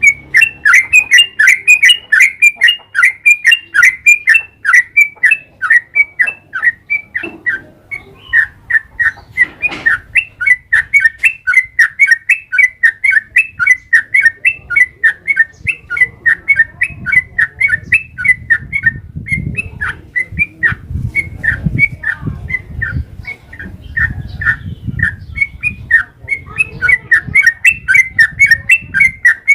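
Yellow-vented bulbul (trucukan) singing a long, unbroken run of quick, chattering notes, about four a second, with a low rumble underneath in the second half.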